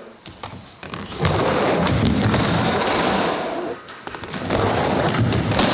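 A skateboard fitted with over a dozen pairs of trucks rolling on a ramp: a loud rumble of many wheels that runs for about two and a half seconds, dips briefly, then comes back for a second pass.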